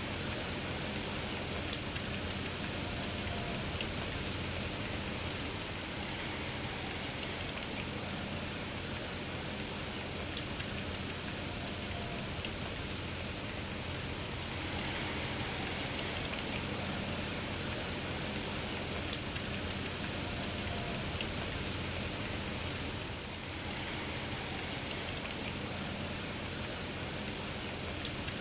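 Steady rain falling, an even hiss of many drops, with a sharp single tap four times, about every nine seconds, louder than the rain around it.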